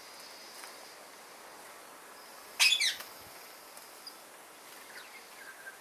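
A pet parrot gives one short, harsh squawk falling in pitch a little over halfway through, with a few faint chirps around it.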